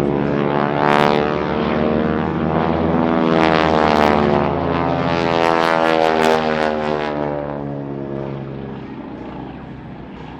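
North American SNJ Texan warbirds flying past, their radial engines and propellers giving a loud, pitched rasp that comes largely from the propeller tips going supersonic. The pitch falls as they go by, about four seconds in, and the sound fades away over the last few seconds.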